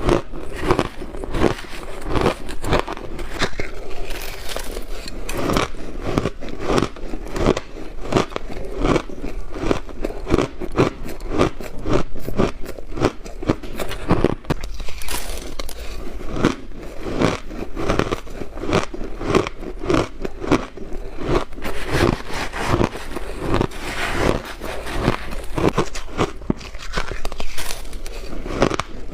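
Close-up crunching and chewing of blended ice, a steady run of many rapid crisp crunches as mouthfuls are bitten and ground between the teeth.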